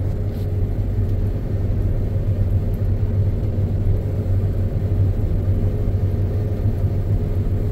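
John Deere X9 combine running steadily under load while harvesting, heard from inside the cab as an even low drone with a faint steady hum above it.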